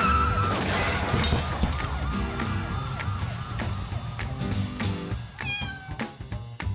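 Cartoon soundtrack: music under comic sound effects, with a quickly repeating warbling whoop and high, falling squeals at the start and again about five seconds in.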